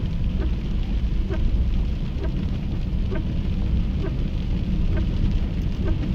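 Swollen Swat River in flood, a loud steady rush of water. Over it, a faint short sound repeats about once a second.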